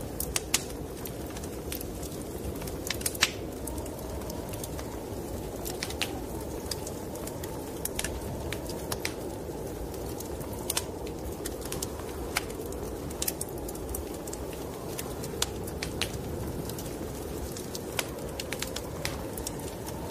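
Wood fire crackling, with irregular sharp pops, over a steady low rush of snowstorm wind.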